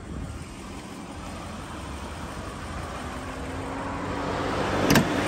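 BMW X6 M50i's 4.4-litre twin-turbo V8 idling after a remote start, growing steadily louder. A single sharp clunk near the end as the hood latch is released.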